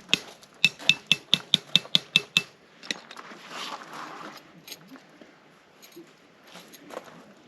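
A rapid, even series of metallic clinks, about five a second, that stops about two and a half seconds in. Scattered soft knocks and rustling follow.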